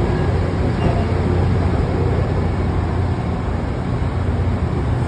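Train running, a steady low rumble with no breaks.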